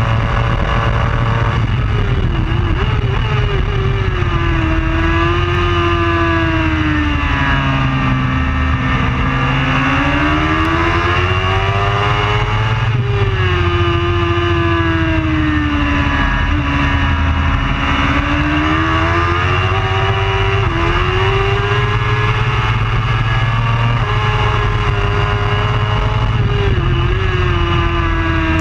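Race superbike engine at speed, its revs climbing and falling smoothly every few seconds with a few sudden drops in pitch, over a steady low rumble.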